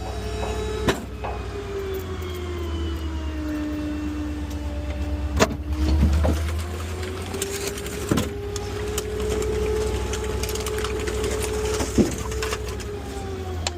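Small rear-loader garbage truck (New Way Diamondback body on a Ford F-550) running: a whining tone that sinks, rises and holds, then falls again over a low engine hum, with a few sharp knocks about every three to four seconds.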